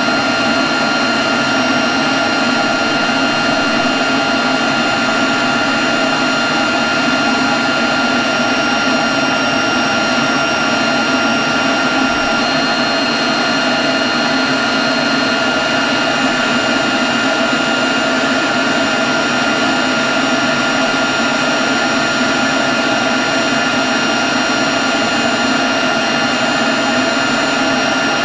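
Leaf blower running steadily at constant speed: a loud, even rush of air with a steady high whine.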